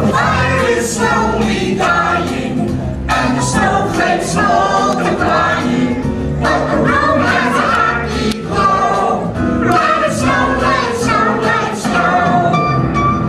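A song: a group of voices singing together over instrumental backing.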